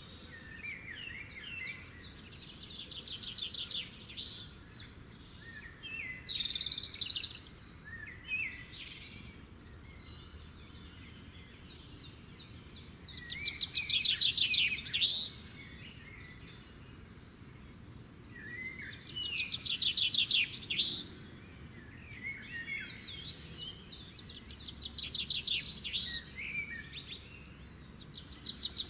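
Birds chirping and twittering in quick, high trills, coming in repeated bouts with the loudest about halfway through and again about two-thirds through.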